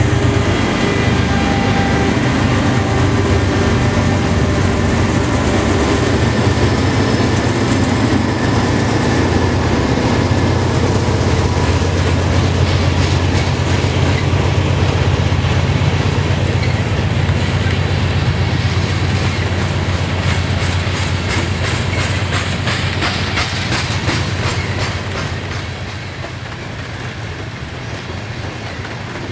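BNSF freight train passing close by: the diesel locomotives' engines drone heavily at first, then the covered hopper cars roll past with a rapid clickety-clack of wheels over rail joints. The sound drops in level near the end.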